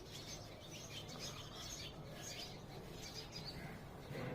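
Birds chirping, many short calls overlapping one another, heard faintly over a steady low background hum.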